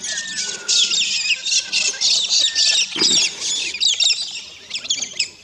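Flock of birds calling in a dense, busy run of high chirps and squawks, with a few short falling whistles near the start.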